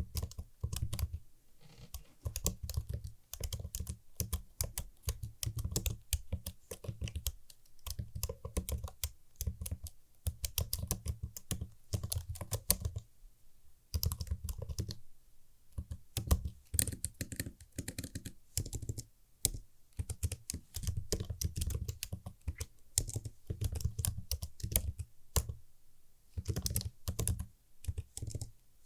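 Typing on a computer keyboard with crisp key clicks and deep thocks, in runs of fast keystrokes broken by short pauses.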